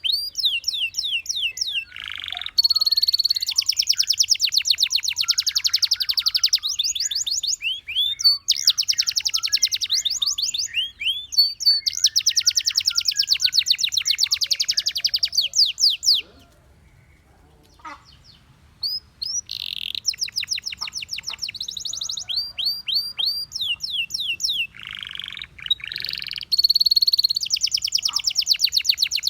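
Canary singing: a long song of fast trills and rapid runs of repeated rising chirps, broken by a pause of about three seconds past the middle before the song resumes.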